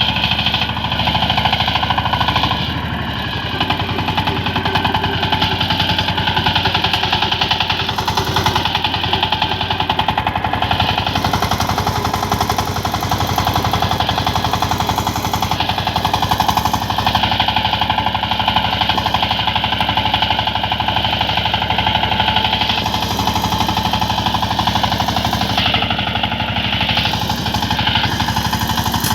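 Power tiller's single-cylinder diesel engine running steadily with a fast, even firing beat.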